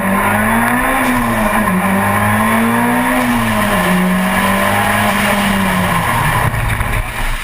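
Race car engine running hard, heard from on board, its pitch rising and falling with the throttle through bends. After about six seconds the engine note drops away, leaving rushing noise.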